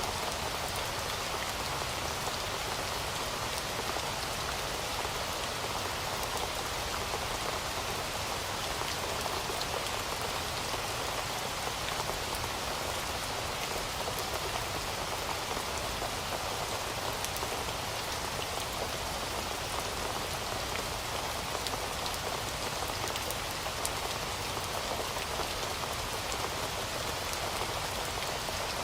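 Heavy rain falling steadily, a dense even hiss of drops with fine individual patter throughout.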